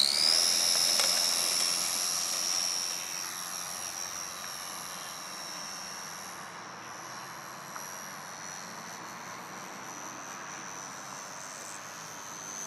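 Small 370-size electric motor and propeller of a radio-controlled Cessna trainer plane at takeoff throttle: a high whine that finishes rising in pitch right at the start, then holds steady and grows fainter over the first few seconds as the plane climbs away.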